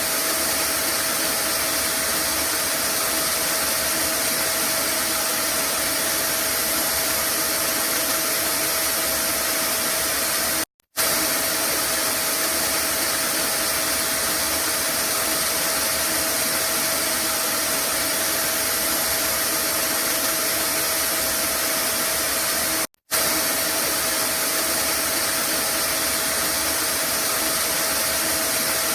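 Vacuum cleaner running steadily, a dense rushing hiss with a thin steady whine. It cuts out for a split second twice.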